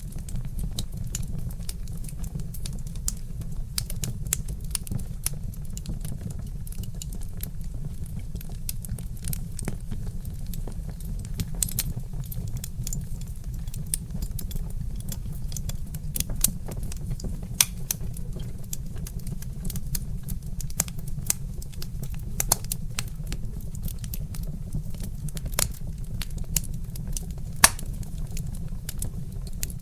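Wood fire crackling: a dense run of small sharp pops and ticks, with a few louder snaps, over a steady low rumble.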